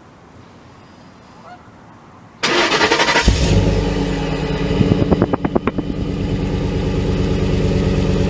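2012 Ford F-150 pickup started from cold: a couple of seconds of quiet, then the starter cranks briefly and the engine catches about three seconds in. It runs a little unevenly for a moment, then settles into a steady idle rumble.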